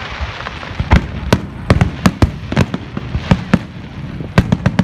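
Fireworks going off: about a dozen sharp bangs and cracks at uneven intervals over a steady hiss.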